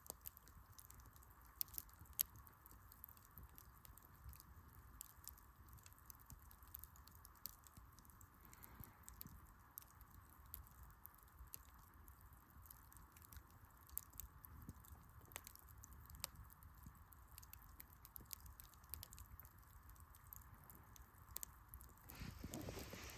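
Embers of a burned-down wood campfire crackling faintly, with scattered sharp pops over a steady faint hiss. Near the end a louder rushing noise comes in.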